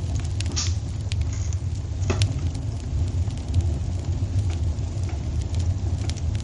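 Wood fire crackling in a fireplace: scattered sharp pops and snaps, a couple louder than the rest, over a steady low rumble.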